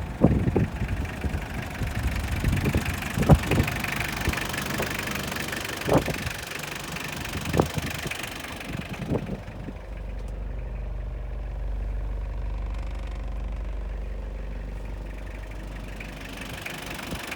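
Mitsubishi Canter's 4M40 four-cylinder diesel engine running. Several sharp knocks stand out in the first half, and from about ten seconds in it settles to a steady idle.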